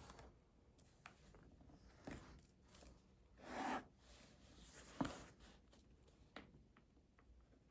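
Faint desk sounds from someone studying: light scattered clicks and taps, a brief rustle of paper about three and a half seconds in, and one sharp tap on the desk about five seconds in.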